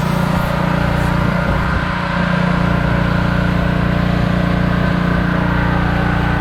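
Pressure washer's small engine running steadily at a constant speed.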